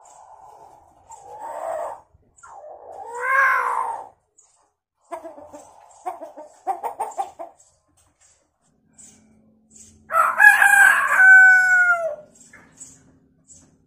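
Hill myna mimicking a chicken: a series of short calls and clucking chatter, then a loud rooster-like crow about ten seconds in that ends in a falling tail.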